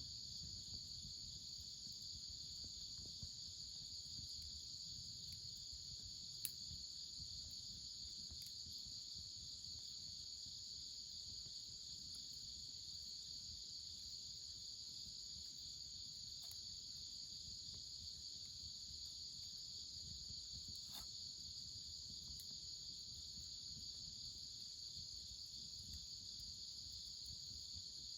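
Steady, high-pitched chorus of insects chirring without a break, with a few faint, sharp clicks now and then, one about six seconds in and another around twenty seconds.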